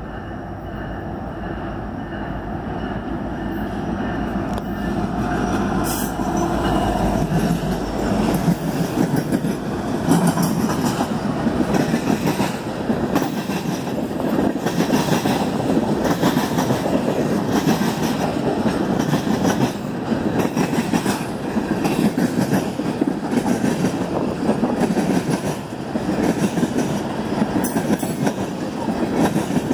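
CN freight train of oil tank cars rolling past. Diesel locomotives approach and grow louder over the first several seconds, then give way to the steady rumble and clickety-clack of the tank cars' wheels on the rails.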